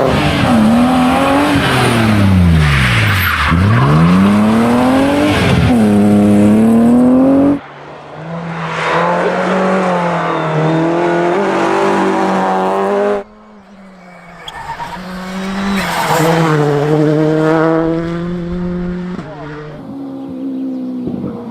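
Rally car engines at full throttle, the engine note climbing and falling sharply through gear changes. The sound changes abruptly twice, about seven and a half and thirteen seconds in, from one car's run to another's.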